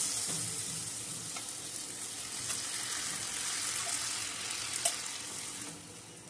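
Spiced onion and potato masala sizzling in a nonstick kadai while a silicone spatula stirs it, the sizzle weakening as boiled green moong dal is mixed in and dropping off near the end. A few short clicks, the sharpest about five seconds in.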